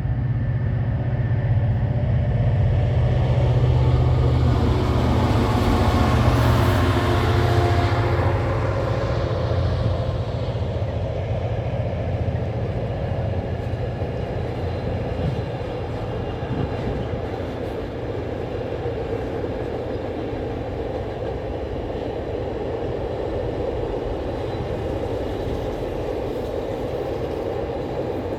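Diesel freight locomotive passing close by, its engine hum loudest in the first eight seconds or so, followed by a steady rumble of the train's wagons rolling past.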